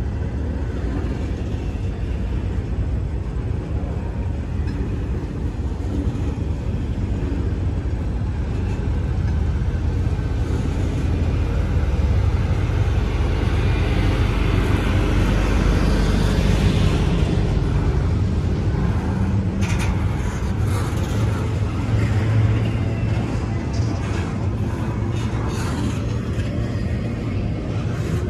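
Double-stack intermodal freight train's well cars rolling past close by: a steady rumble of steel wheels on the rails, with a few sharp clicks in the later part.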